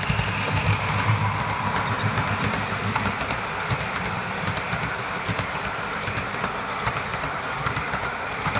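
Diesel-hauled passenger train running past: a low engine hum that eases off after the first second or two, under a steady running noise. Many irregular clicks come from wheels passing over rail joints as the coaches go by.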